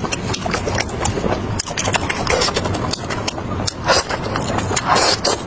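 Close-miked eating: chewing and crunching of spicy fried meat, a rapid run of crackling clicks, with louder noisy bursts about four and five seconds in.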